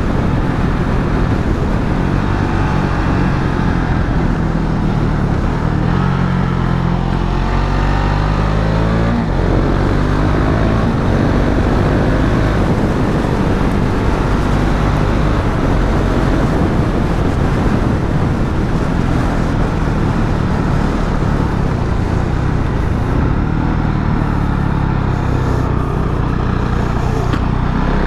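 Motorcycle engine heard from on board while riding, revving up and easing off through the gears, with wind rush over the microphone.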